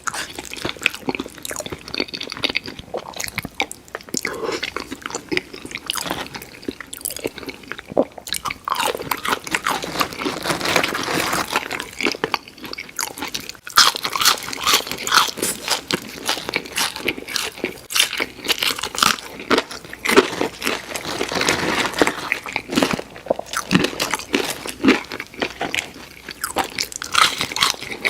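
Close-miked eating of crispy fried food: repeated crunchy bites and wet chewing, full of irregular crackles from the breading.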